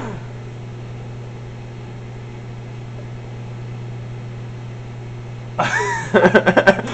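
Microwave oven running: a steady low hum with a faint fan hiss, holding level while marshmallow Peeps heat inside.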